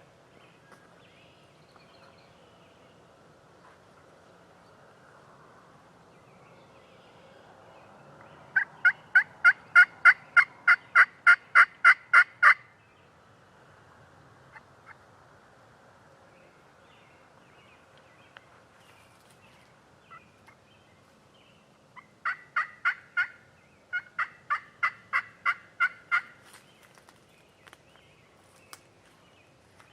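Turkey calling: a run of about sixteen sharp, evenly spaced notes, about four a second, then after a long pause two shorter runs of about four and about eight notes.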